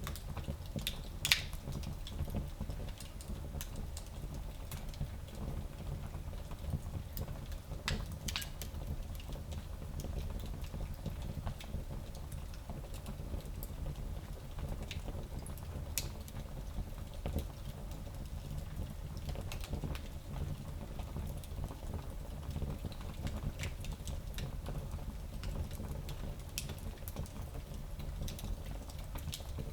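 Small fireplace fire crackling, with scattered sharp pops, the loudest about a second in, over a low steady rumble of the flames.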